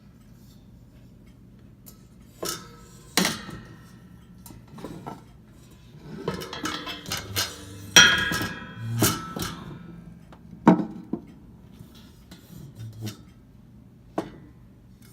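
A metal table fan being handled and shifted about: a series of irregular knocks and clinks from its metal body and cage, some ringing briefly, the loudest near the middle. The fan is switched off.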